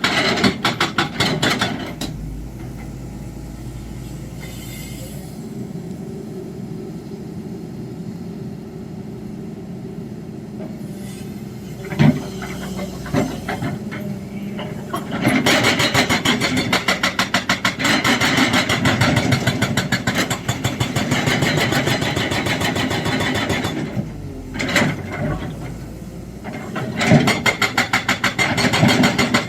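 Excavator-mounted hydraulic breaker hammering in rapid, even blows, in bursts: at the start, through the middle of the clip and again near the end. Between the bursts the excavator's diesel engine runs on its own.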